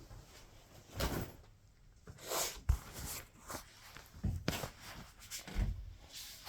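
Scattered handling noises in a small room: several brief rustles and knocks, with one sharp click about two and a half seconds in.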